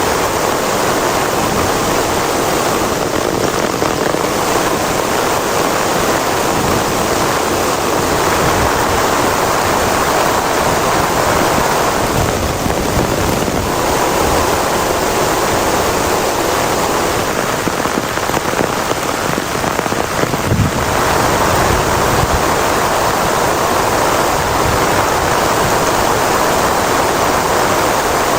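Heavy rain falling steadily in a dense, even hiss. About 20 seconds in there is a single brief low thump.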